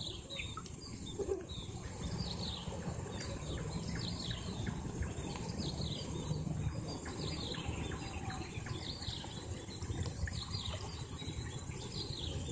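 Small birds chirping, short falling calls repeating about once a second, over a steady low rumble.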